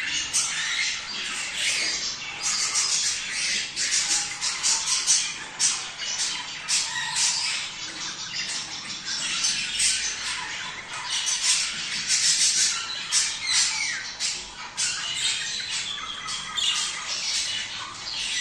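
A group of budgerigars chattering and squawking in a dense, continuous tangle of short, overlapping calls.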